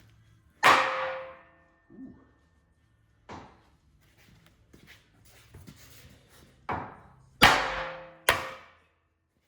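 Hammer blows on the steel Bobtach pivot of a Bobcat T190 skid steer, each strike ringing briefly: five blows, spread out at first, with the loudest coming in a quick pair near the end. The blows drive old grease out through the open grease-fitting hole.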